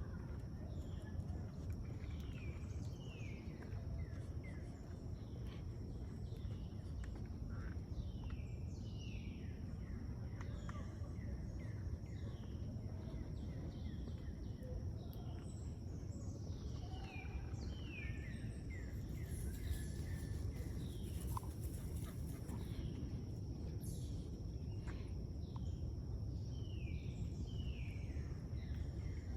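Birds calling: many short, falling chirps, repeating throughout, over a steady low rumble.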